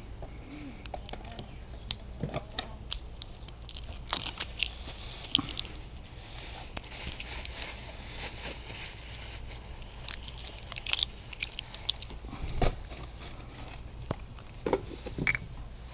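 Irregular clicks, crinkles and rustles of hands handling sauce bottles and packaging while seasoning fish.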